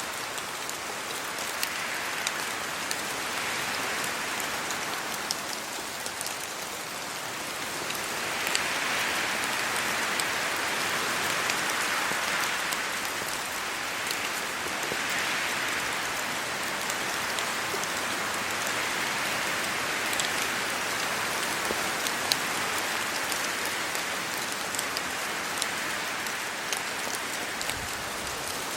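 Steady rain falling on trees and leaves, with scattered sharp drop ticks. A rushing sound swells and eases every few seconds as wind gusts through the foliage.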